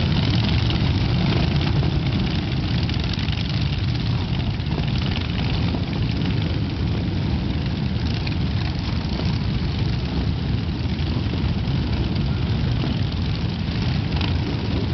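Continuous low rumble of a large pack of motorcycles rolling out together in a steady stream, many engines blending with no single bike standing out.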